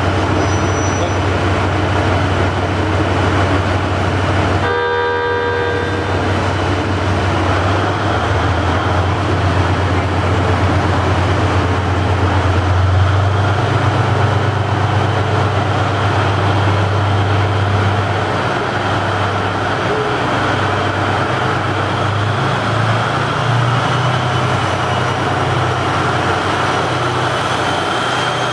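Train running, with a steady low engine drone and rumble throughout. A short horn blast of about a second comes about five seconds in.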